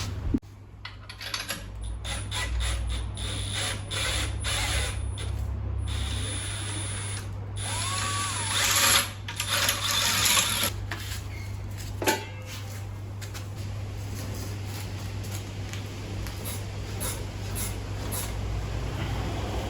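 Workshop tool work: a run of clicks and knocks, with a longer spell of mechanical noise about eight seconds in, over a steady low hum.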